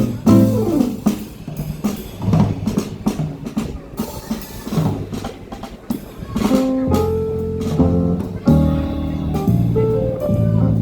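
Live jazz band playing: drum kit in a busy fill with cymbals, then bass and keyboard notes coming back in about two-thirds of the way through.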